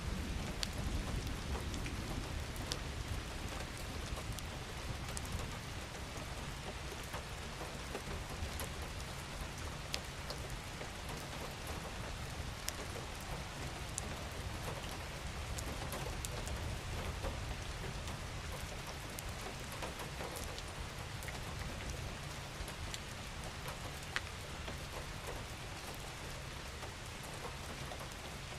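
Steady rain falling on a surface, with single drops ticking sharply here and there over the hiss and a low rumble underneath that is stronger in the first half.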